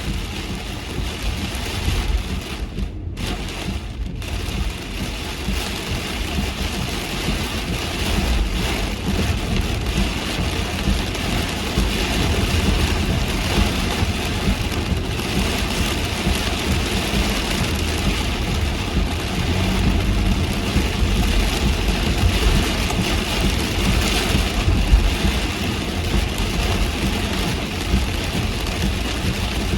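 Heavy rain falling on a car as it drives through it, with a steady low rumble of road and engine underneath. The higher rain noise cuts out briefly twice, about three and four seconds in.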